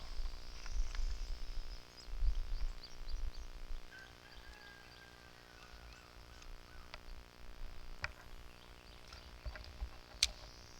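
Creek-side outdoor ambience: a low rumble of wind on the microphone for the first few seconds, a faint high hiss, and a few sharp clicks, the loudest about ten seconds in.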